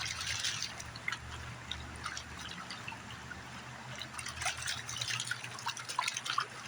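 Water sloshing, splashing and dripping as a gold pan of gravel is swirled and worked in the river.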